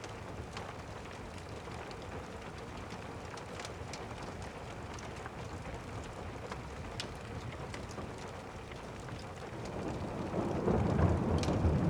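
Steady rain with scattered small crackles from a fireplace fire. About ten seconds in, a low rumble of thunder swells up.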